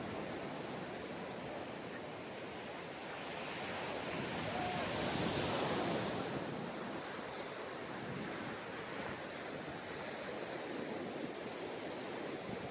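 Ocean surf on a beach: a steady rush of waves, swelling as a wave breaks about four to six seconds in, then easing back.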